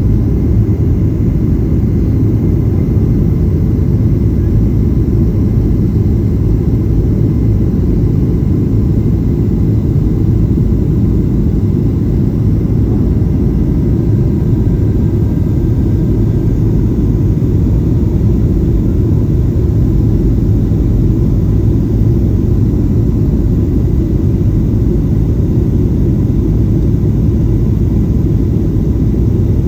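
Steady low rumble of a Boeing 737-800's jet engines and airflow, heard from inside the passenger cabin.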